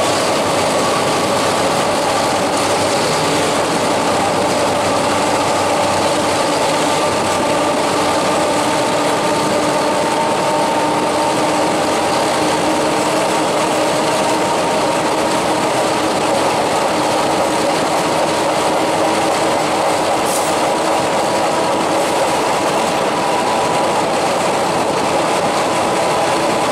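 Passenger train running steadily along the track, heard from an open window of one of its carriages: an even rush of wheel and running noise with several steady tones held under it.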